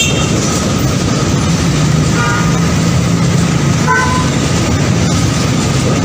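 A train running with a steady low engine drone and the noise of moving stock, with two short horn toots about two and four seconds in.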